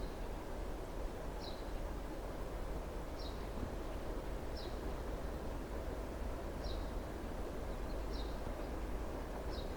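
A bird repeating a short, high, falling chirp about every one and a half seconds, over a steady low outdoor rumble.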